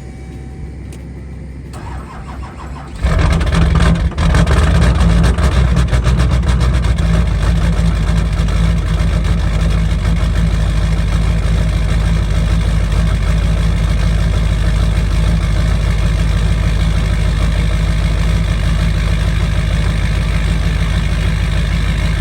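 Truck engine with a dead battery being jump-started: it cranks briefly, catches about three seconds in, and runs loudly and steadily.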